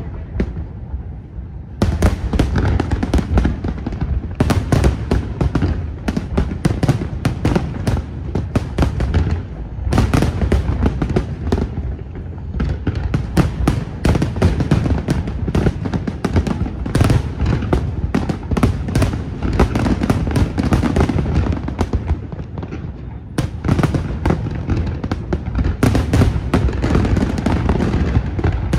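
Fireworks display going off in a dense, rapid barrage of booms and crackling bursts. There is a brief lull in the first two seconds, and the barrage eases twice more for a moment before building again.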